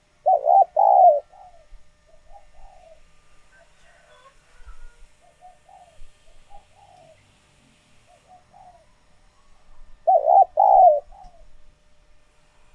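Spotted dove cooing: a loud, short phrase of a few coo notes right at the start and again about ten seconds in, with softer coos in between. It is the male's crowing call, kept here as a decoy call to stir up wild doves.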